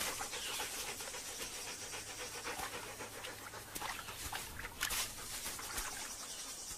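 African wild dogs panting, with a few faint short clicks and chirps.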